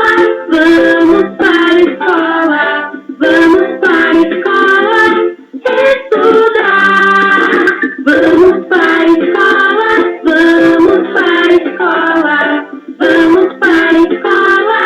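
A children's song: a sung melody over a strummed plucked-string accompaniment such as a ukulele or guitar.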